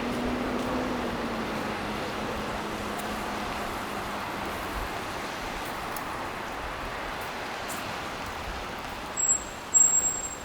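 Road traffic: a passing vehicle's engine hum that slowly fades over a steady wash of road noise. Two short high-pitched tones sound near the end.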